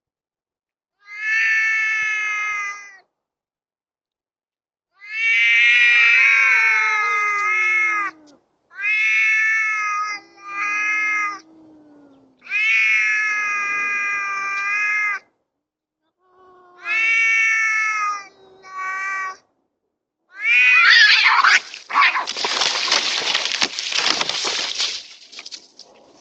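Two stray cats caterwauling in a standoff: a series of long, wavering yowls with short silences between them. About twenty seconds in they break into a harsh, noisy screech and hiss as the fight erupts.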